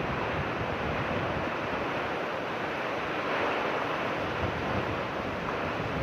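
Heavy rain pouring down in strong wind, a steady dense rushing noise with no letup.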